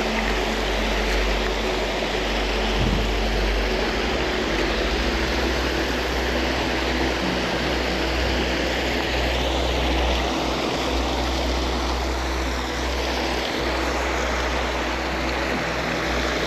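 Steady rushing of water in a creek cascade, with a low rumble underneath.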